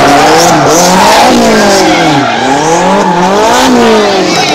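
Small car engine revving hard, its pitch climbing and dropping in about three sweeps as the throttle is worked through a drift, over the hiss of tyres spinning and scrubbing sideways across the asphalt.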